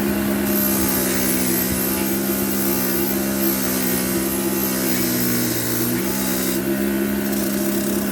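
A running machine giving a steady, loud hum, its tone changing slightly about six seconds in.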